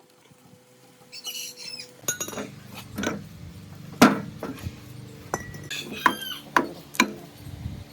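Irregular sharp knocks and clinks, with a bird chirping briefly twice: about a second in and again about six seconds in.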